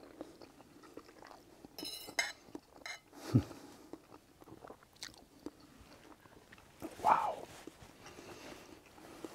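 A man chewing a mouthful of pasta, with light clinks of cutlery about two seconds in. A short low thump about three seconds in is the loudest sound, and a brief pitched sound comes near seven seconds.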